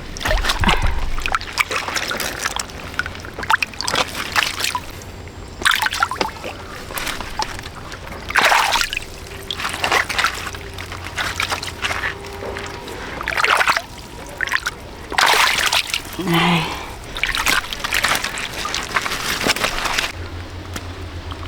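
Water splashing and sloshing again and again, every second or two, over a low steady hum.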